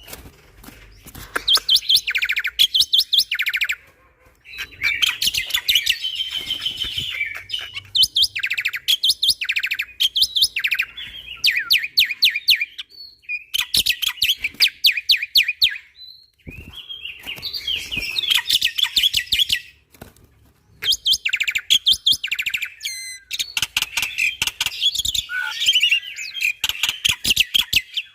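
Black-winged starling singing loudly in rapid-fire phrases of harsh repeated notes and trills, each a second or two long, with brief pauses between them.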